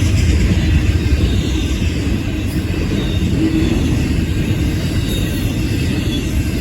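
Freight train passing at speed: a steady, loud rumble of wheels on rail, with faint high squeals that fall in pitch.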